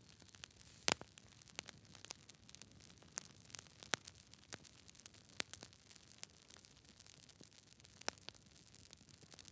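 Campfire crackling: irregular sharp pops and snaps over a soft hiss, the loudest pop about a second in.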